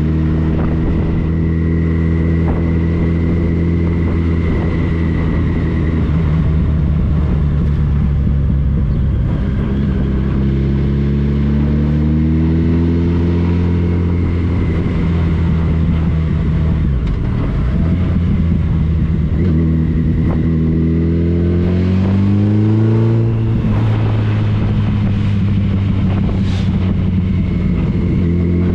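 Motorcycle engine running on the move, mostly steady, its pitch rising and falling a few times with the throttle and rising most clearly about two-thirds of the way through.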